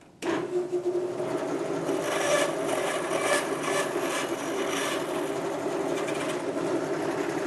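General-purpose bandsaw, blade running at about 1,000 feet per minute, cutting steadily through a soft workpiece fed against the angle guide: a continuous scraping, rasping cut that starts abruptly just after the beginning.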